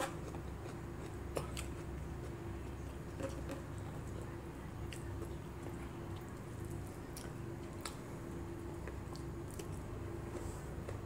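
Close chewing and mouth sounds of someone eating rice and milkfish by hand, with scattered small clicks, over a steady low hum.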